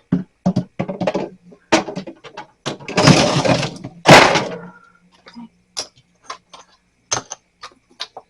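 Built-up freezer ice being pried and broken out of a mini fridge's freezer compartment: a run of sharp cracks and knocks, with two longer, louder scraping noises about three and four seconds in.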